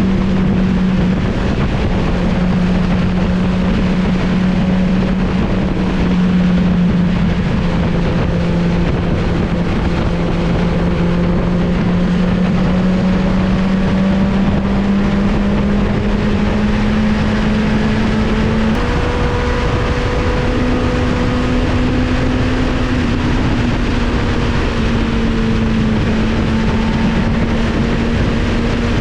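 Motorcycle engine running at a steady cruise with wind rushing past. Its note creeps slowly higher and jumps up a step about two-thirds of the way through.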